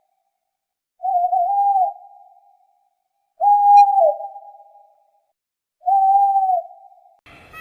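A bird calling: three long hooting calls on one clear pitch, about two and a half seconds apart, each trailing off with an echo; the third bends downward at its end.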